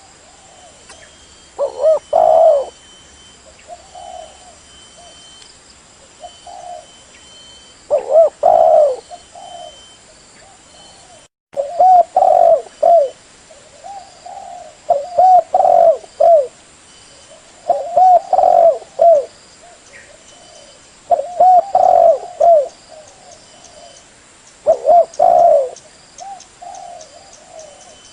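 Spotted dove (terkukur) cooing: short phrases of several low coos repeated every two to three seconds. There is a brief gap about eleven seconds in.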